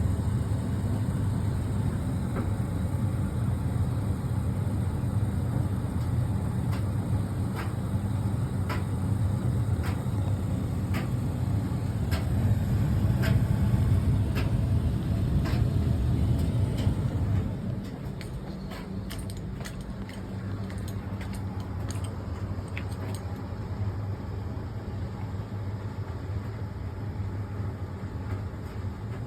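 Fisher & Paykel ED56NZ clothes dryer running with its drum tumbling the load, a steady low rumble with a light click about once a second as something hard in the clothes strikes the drum. About two-thirds of the way in the rumble drops away and becomes quieter, with scattered clicks going on.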